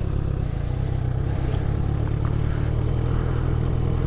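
Motorcycle engine idling steadily with a low, even note, shortly after being started.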